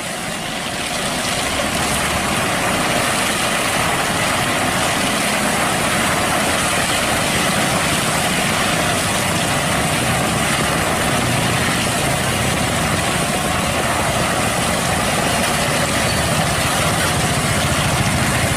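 Heavy diesel truck engine running steadily at an even level, with a dense, even rumble throughout.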